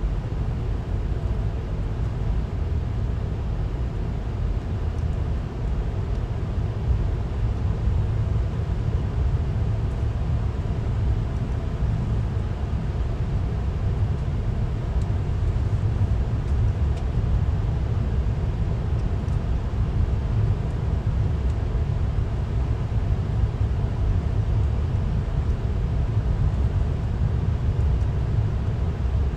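A passenger train running at speed, heard from on board: a steady, even low rumble of the wheels on the rails.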